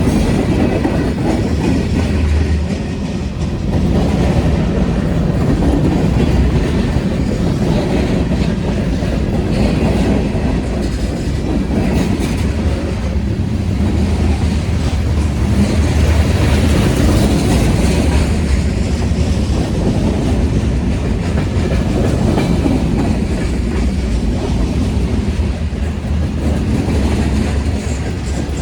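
Freight train's cars rolling past, a steady loud rumble of steel wheels on the rails with some clacking.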